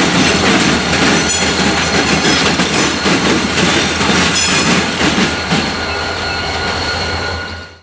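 Wheeling & Lake Erie freight train backing over the rails: wheels squealing in steady high tones and clacking over the joints, with the diesel locomotive running low underneath. The sound eases a little as the train moves off, then drops away at the very end.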